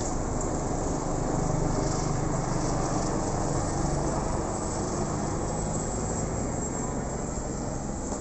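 Steady low engine rumble that swells slightly a second or two in and then eases off a little.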